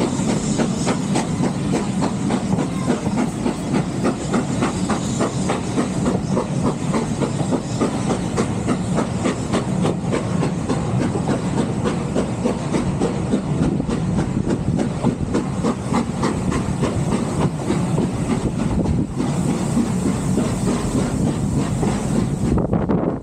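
Steam-hauled heritage train running along the line: wheels clicking over the rail joints in a steady repeating rhythm over a constant rumble and hiss.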